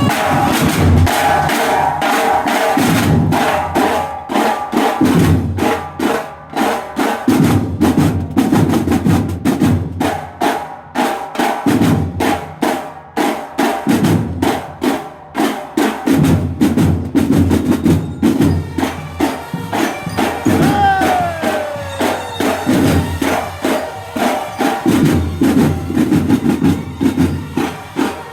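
Banda de guerra drum section playing a fast, steady march cadence on snare and bass drums, with sharp rim and stick clicks and snare rolls.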